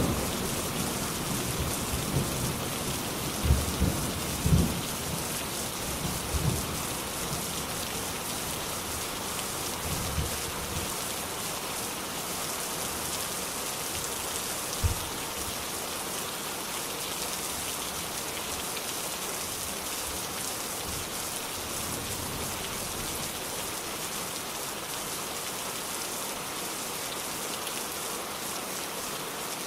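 Steady rain hissing, with thunder rumbling off in short low bursts over the first ten seconds or so. A single low thump comes about fifteen seconds in.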